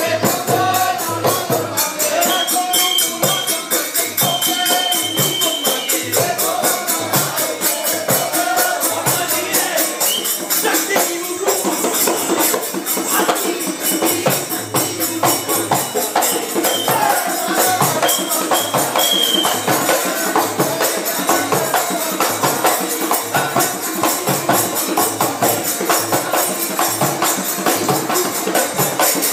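Live folk-devotional music for a Tirikutu dance-drama: a drum beating steadily under constant jingling percussion, with singing in roughly the first third.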